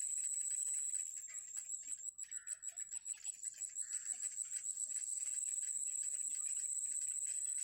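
Baby birds in a nest cheeping in rapid short chirps, over a steady high-pitched drone.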